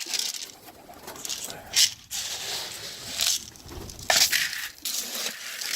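Dry pigeon feed scooped and poured, a few short rattling, rustling pours of grain and pellets.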